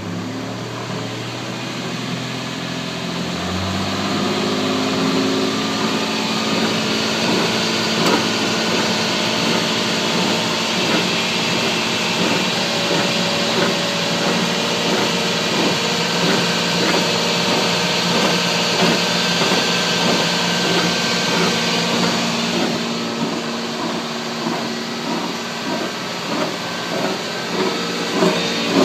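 Grinding noise from the rear end of a 1996 Toyota 4Runner on the move, a fast, evenly repeating grind over the drivetrain hum that climbs in pitch over the first few seconds and then holds steady. The owner suspects a worn wheel bearing, since fresh differential fluid showed no excess metal or gear teeth.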